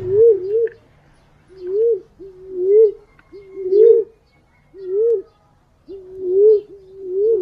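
Wild pigeon calling: a repeated low coo, roughly one call a second, each a short held note that ends in a rising, wavering flourish. This is the punai/walik pigeon call used as a lure to draw the birds in.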